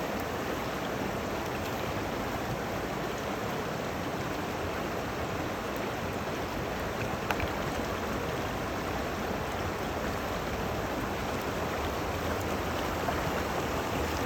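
Mountain river water rushing steadily, with one small click about halfway through.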